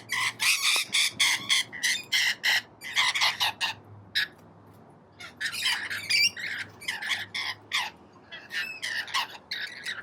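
Rainbow lorikeets screeching: many short, harsh calls overlapping in quick runs, with brief lulls about four seconds in and again near eight seconds. Very loud.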